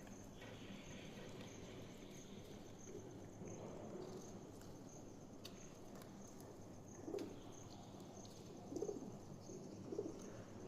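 Faint cooing of pigeons: a few short, low calls in the second half over a quiet background.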